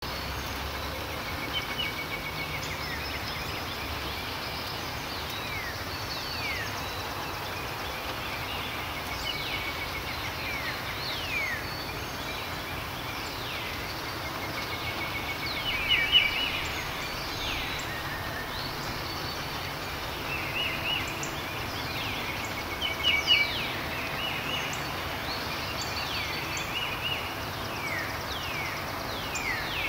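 Recorded nature ambience: birds calling over a steady hiss, with many quick falling whistles and short trills, a little louder about halfway through and again later.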